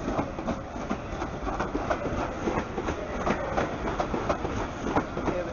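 London Midland Class 350 Desiro electric multiple unit passing, its wheels clacking over rail joints and pointwork above a steady low rumble.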